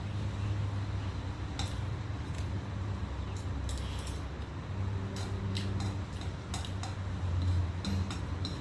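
Metal utensils clinking against dishes at irregular intervals, over a steady low hum.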